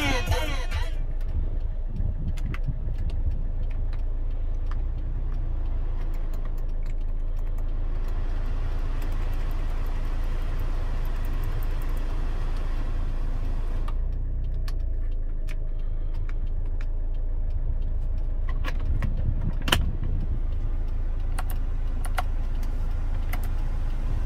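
Hyundai Avante HD idling, heard inside the cabin as a steady low rumble. Over it come plastic clicks from radio and climate-control buttons, and a rush of air from the ventilation blower between about 8 and 14 seconds in. A sharper click comes a few seconds before the end.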